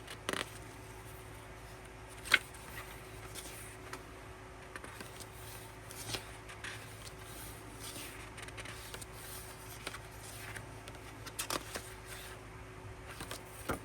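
Quiet handling of a K-pop album's paper contents: soft rustling and light taps as pages and inserts are turned over, with one sharper click a couple of seconds in and a few more near the end, over a faint steady hum.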